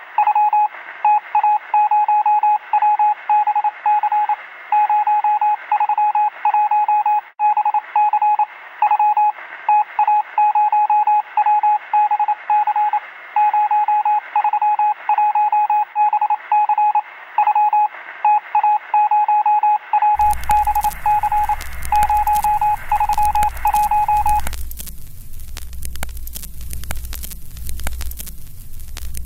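A single steady beep tone keys on and off in irregular short and long pulses, thin and narrow like a signal heard over a radio. About twenty seconds in, a loud low rumble with hissing static joins it, pulsing as it goes. The beeping stops a few seconds later and the rumble and static carry on.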